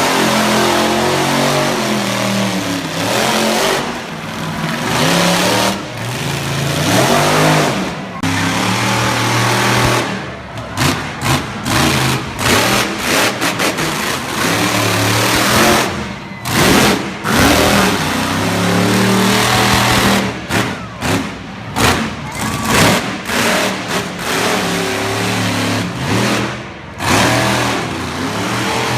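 Monster truck engines revving loudly, the pitch climbing and falling with the throttle. Through the middle and later parts the sound turns choppy, with many quick breaks and bursts.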